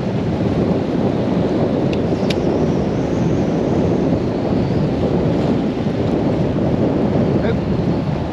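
Gale-force storm wind buffeting the microphone: a loud, steady low rush, with one short sharp click about two seconds in.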